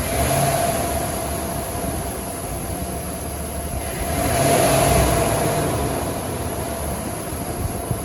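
2023 GMC Sierra 2500 pickup's engine running, revved twice: a short rise right at the start, then a bigger rev about four seconds in that climbs and settles back to idle.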